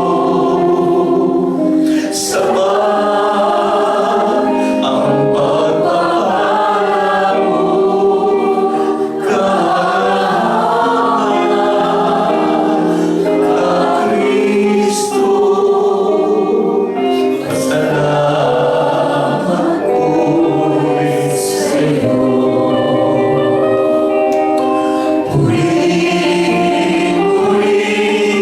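Congregation singing a Tagalog worship song together, a sustained choir-like chorus of mixed voices.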